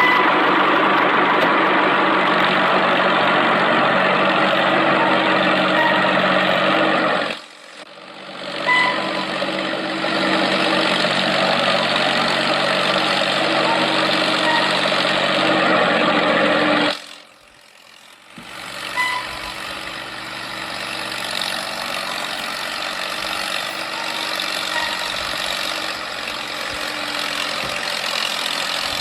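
Mini tractor engine running steadily. It cuts out sharply twice, about a quarter and about three fifths of the way in, and after the second break it comes back quieter.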